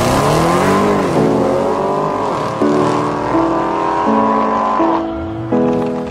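Audi RS6 Avant's twin-turbo V8 accelerating hard, its pitch rising with a brief drop at a gearshift about a second in. From about two and a half seconds an electronic music track with stepping melody notes comes in over the engine as it fades away.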